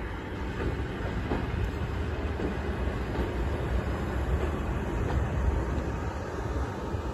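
Chichibu Railway Deki 500 electric locomotive hauling a Tobu 50000 series electric train set at low speed, with a steady low rumble of wheels on rails as it rolls onto a steel girder bridge.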